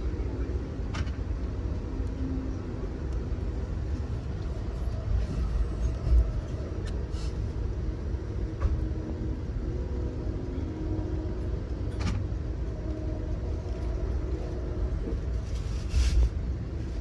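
Steady low rumble of a moving Amtrak Auto Train passenger car heard from inside, wheels running on the rails. Several sharp clicks and knocks come through it, and there are two louder jolts, about six seconds in and near the end.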